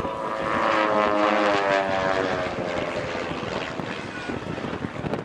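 Van's RV-8 propeller aircraft flying past, its engine and propeller dropping in pitch as it goes by, loudest a second or two in and then fading away.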